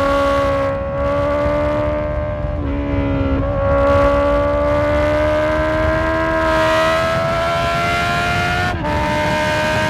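Honda CB650F's inline-four engine running under way, its pitch climbing slowly as the bike accelerates. The pitch dips briefly about three seconds in, typical of a gearchange, and changes again near the end.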